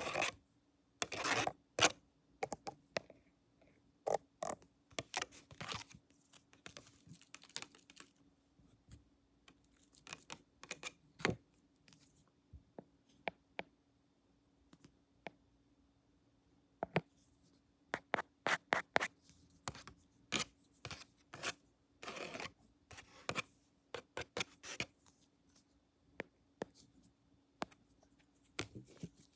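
Close-up scratching, tapping and clicking of pretend barber tools handled against the microphone and camera, in irregular bursts with pauses between, over a faint steady hum.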